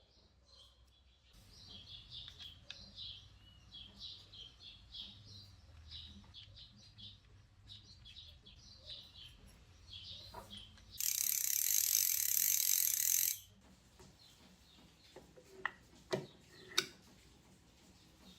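Small birds chirping, then a loud mechanical ratcheting buzz of about two seconds, followed by a few sharp clicks.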